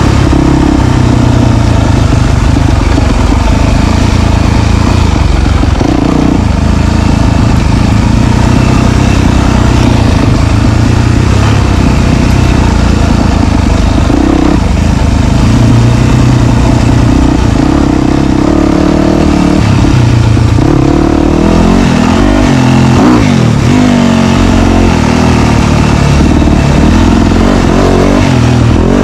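Dirt bike engine running loud as the bike is ridden on a trail, the revs rising and falling with the throttle. In the last several seconds the revs swing up and down quickly.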